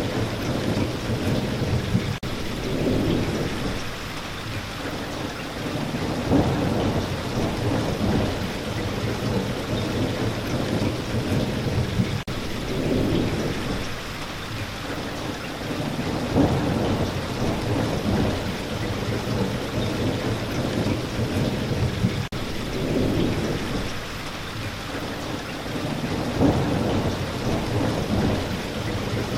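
Steady rain falling, with low rolling rumbles of thunder swelling and fading every few seconds. The same pattern of rain and rumbles repeats about every ten seconds.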